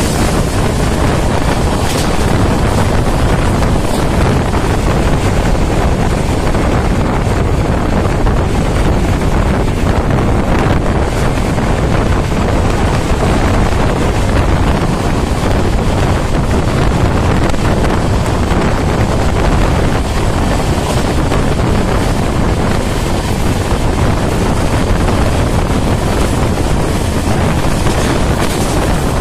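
Passenger train running at speed: a steady rush of wind on the microphone over the low rolling rumble of the coach.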